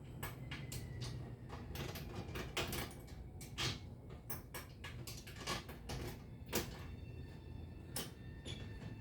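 Irregular light clicks and knocks of objects being handled, a dozen or so spread unevenly, over a low steady rumble.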